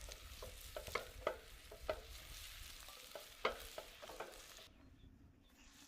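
Diced beetroot frying in a pan over a wood fire: a faint sizzle with scattered small pops, the hiss dropping away near the end.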